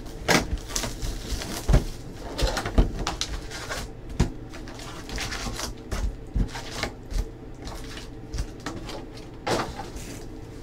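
Trading cards being handled and flipped through, with repeated soft clicks and rustles as cards slide against each other.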